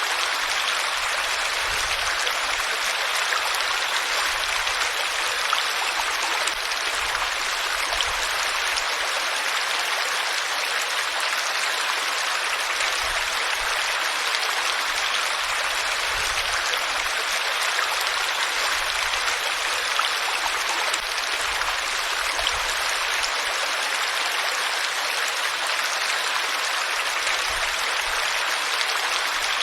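Flowing water rushing steadily and evenly, without breaks or changes.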